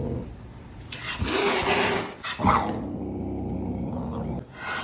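A pet animal growling: a loud rough burst about a second in, a short rising cry in the middle, then a steadier low growl, with another loud burst at the end.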